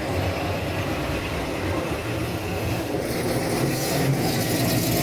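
A vehicle engine running with a steady low rumble under a broad noise that grows slowly louder through the second half.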